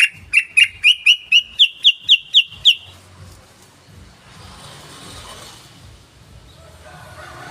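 Yellow-vented bulbul (trucukan) calling: a quick run of about a dozen sharp notes, roughly four a second, climbing slightly in pitch, which stops about three seconds in. The rest is faint background hiss.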